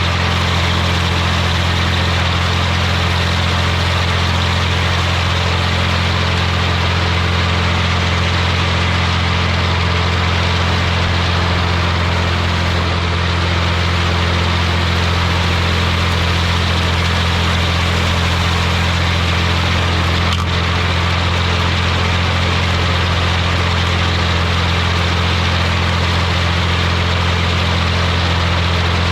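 Massey Ferguson 245 tractor's diesel engine running steadily under load while mowing, with a strong low engine hum and a constant rush of mechanical noise over it.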